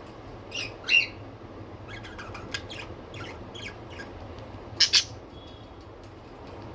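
Budgerigars chirping and squawking: two sharp calls about half a second in, a quick run of short chirps in the middle, and two loud squawks close together near the end.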